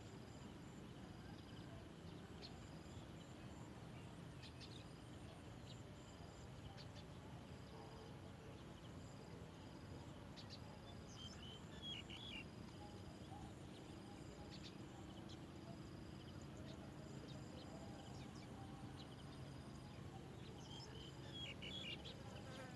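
Faint outdoor ambience: an insect trilling high in short, regularly repeated bursts over a low steady background hiss. A few short high chirps from a bird come about eleven seconds in and again near the end.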